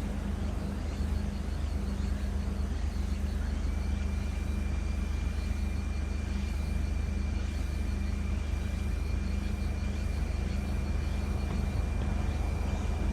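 Steady low rumble of a Toyota Crown (Zero Crown) idling, with a faint steady high-pitched whine that comes in about four seconds in.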